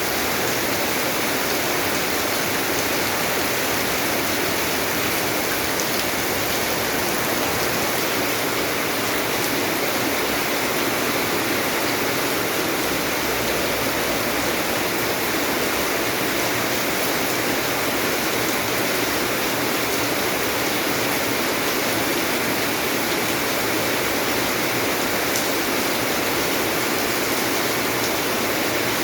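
Steady rain: an even hiss of falling water with a few faint drop ticks.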